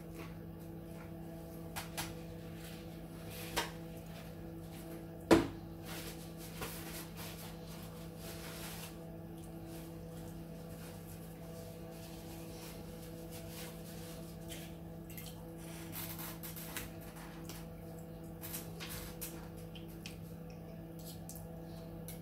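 Quiet chewing and mouth sounds over a steady background hum, with scattered small clicks and one sharp knock about five seconds in.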